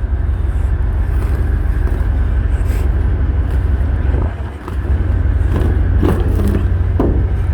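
Semi truck idling: a steady low rumble that dips briefly about halfway through, with a few light knocks and scrapes near the end.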